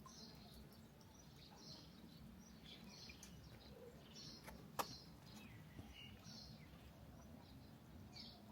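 Faint bird chirps repeating every second or so over a steady low background noise, with one sharp click a little past halfway.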